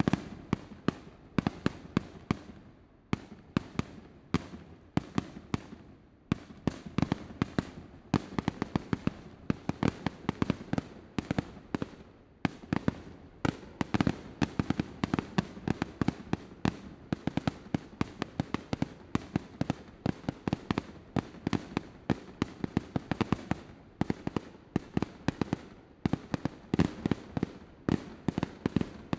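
Aerial fireworks display: a rapid barrage of sharp shell bursts and bangs, several a second, with a few short lulls.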